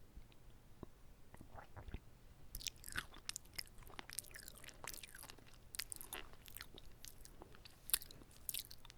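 Close-miked chewing of a whole kimbap roll: soft sticky, wet mouth clicks, sparse for the first couple of seconds and then steady, with one sharper click near the end.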